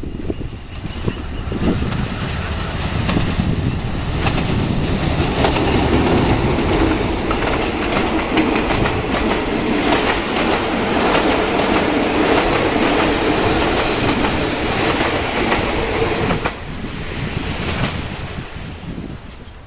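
A train running on the track, its wheels clattering over the rail joints. It builds over the first few seconds, holds loud, then drops away sharply about three-quarters of the way through and fades.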